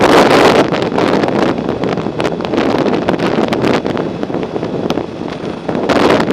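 Wind buffeting the microphone of a camera on a moving bicycle, a loud rushing noise that eases somewhat in the middle and picks up again near the end.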